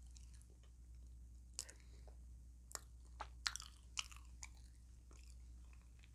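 Close-up chewing and biting into a crunchy taco shell, with a handful of sharp crunches clustered between about one and a half and four and a half seconds in.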